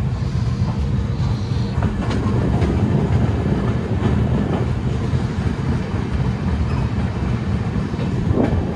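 Passenger train coach moving at speed, heard from its open door: a steady rumble of wheels on the rails, with a few faint clacks.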